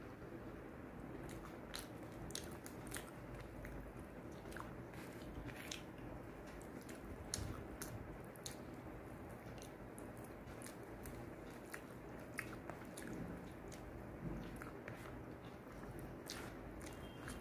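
Close-up eating sounds: a person chewing soft fried paneer fritter (chhanar bora) and rice, with frequent short wet mouth clicks and smacks.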